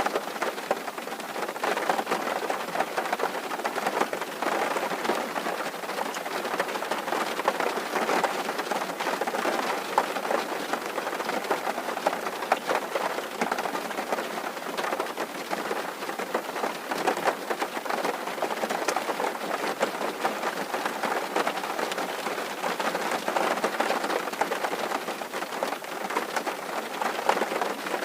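Rain falling on a tin roof: a dense, steady patter of drops hitting the metal sheets.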